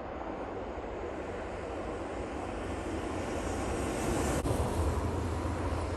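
Train approaching, a rushing noise that slowly grows louder while a low rumble strengthens in the second half, with a single sharp click about four seconds in.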